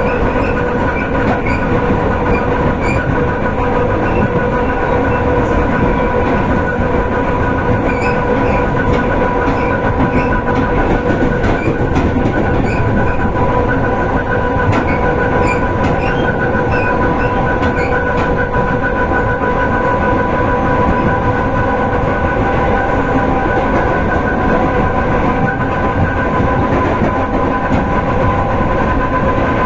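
Electric commuter train (elektrichka) running at speed, heard from inside the carriage: a steady rumble of wheels on rail with an even whine held on a few steady pitches, and a few faint clicks along the way.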